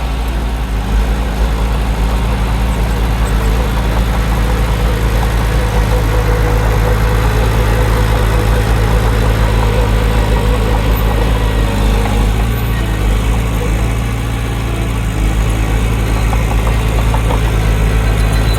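Diesel engine of heavy earthmoving equipment running steadily with a deep, even hum, easing a little about fourteen seconds in.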